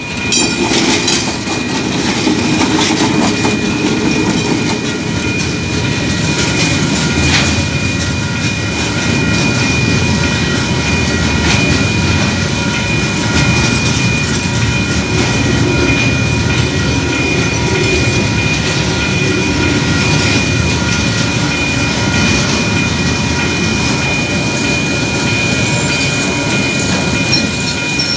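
KiwiRail coal train rolling through a level crossing at close range. The locomotive passes first, then a long line of freight wagons, with a continuous rumble of wheels, clickety-clack over the rail joints and occasional clunks. Steady high-pitched ringing tones sound over the rumble throughout.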